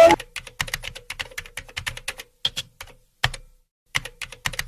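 Quick, irregular clicking of keys typed on a keyboard, in runs broken by brief dead-silent pauses: a typing sound effect.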